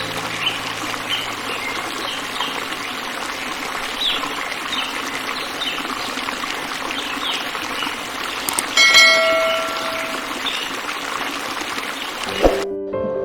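Running, trickling water with short high chirps scattered through it, and a brief ringing bell-like tone about nine seconds in.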